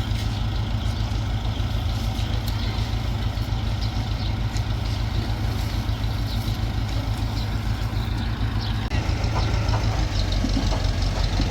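A machine engine running steadily with a deep hum, getting a little louder about nine seconds in.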